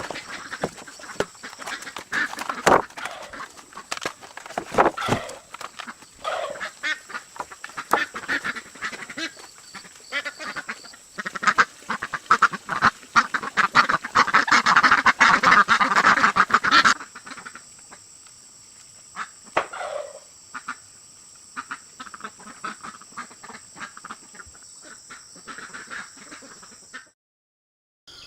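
A large flock of farm poultry calling all at once, with many overlapping calls and scuffles that are loudest just past the middle. After an abrupt change about two-thirds of the way in, it thins to a few scattered calls over a steady high insect buzz.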